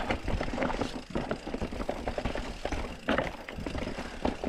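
Mountain bike clattering over rough, rocky trail: a steady low rumble with many short knocks and rattles.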